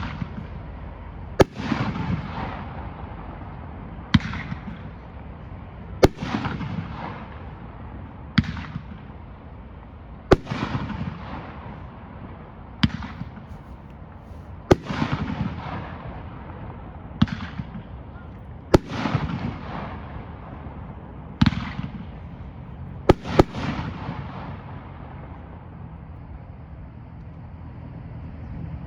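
Aerial firework cake 'Willow King' firing shot after shot, about one every two seconds. Each shot is a sharp bang followed by a crackling hiss that fades over about a second. The last two shots come close together, about two-thirds of the way through, and then the firing stops.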